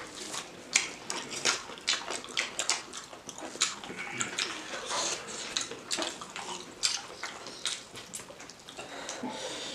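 Close-miked wet chewing and lip-smacking of people eating chicken curry and rice by hand, with squelches of fingers mixing rice into gravy: many irregular wet smacks and clicks.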